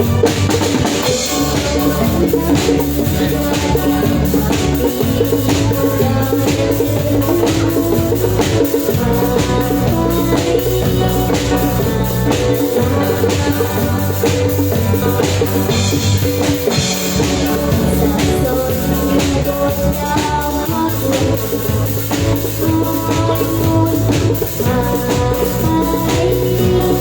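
A live band playing a song with a drum kit and bass, the drums keeping a steady beat under sustained melody notes.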